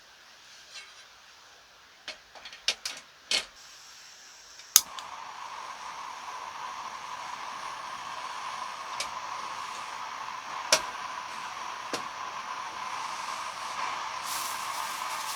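Several handling clicks, then a portable gas burner lights with a sharp ignition click about five seconds in and hisses steadily, with a few more clicks over the flame.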